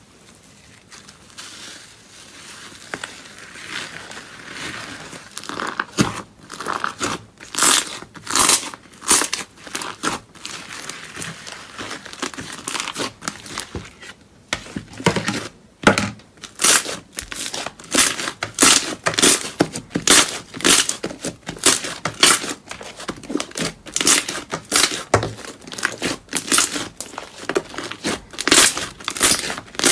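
Crunchy material being crushed or squeezed in a satisfying-sounds video, giving crackling crunches about twice a second. It starts as a soft rustle and gets louder about six seconds in.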